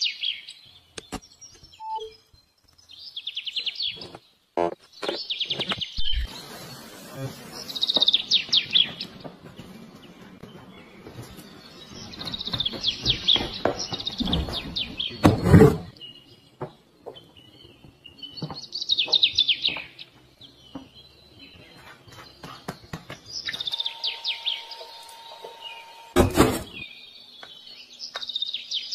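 Bird chirping in short trilled bursts every few seconds, with scattered clicks and two loud sharp knocks, one about halfway through and one near the end.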